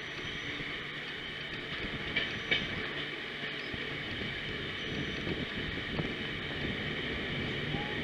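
A passenger train running along the track: a steady running noise, broken by a few sharp clicks about two and a half seconds in and again at about six seconds.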